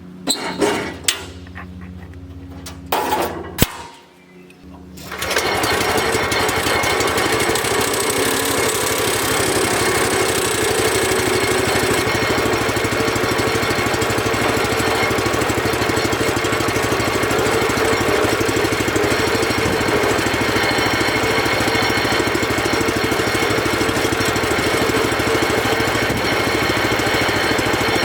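Wood-Mizer LX25 band sawmill's engine: a few clicks and knocks, then the engine starts about five seconds in and runs steadily.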